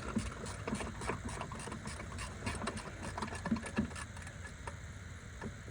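Hand ratchet wrench clicking in quick runs while loosening a bolt, with a few metal knocks, over a steady low hum.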